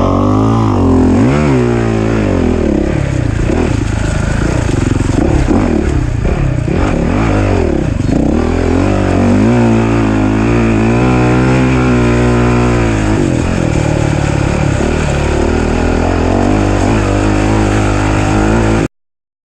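Off-road racing engine run hard, its pitch rising and falling over and over as the throttle is opened and shut and gears change. The sound cuts off suddenly near the end.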